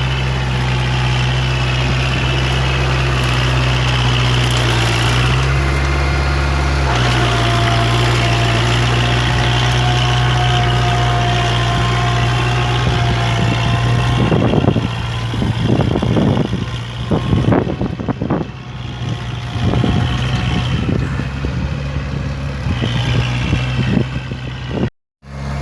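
Kubota MU4501 45 hp four-wheel-drive tractor's diesel engine running steadily while working a wet, muddy field in puddling tillage. About halfway through the engine note thins and several sudden loud bursts of noise come over it, and the sound cuts out briefly just before the end.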